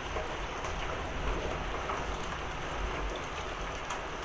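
Steady rain falling, with a few sharp ticks of hailstones landing.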